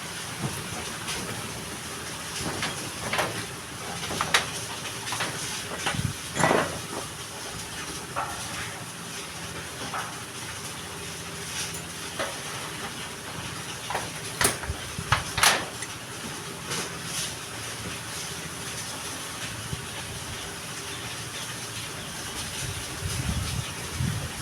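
Electric arc welding: a steady frying hiss with a low machine hum, broken by scattered crackles and a few louder sharp knocks.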